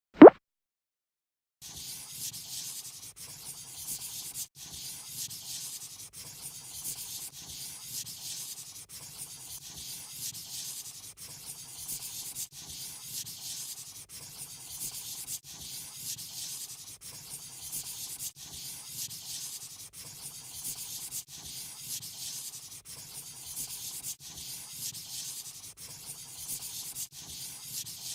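A marker or pencil scratching and rubbing over paper while colouring in, in steady strokes broken by short pauses about once a second. A sharp click comes right at the start, followed by a second and a half of silence.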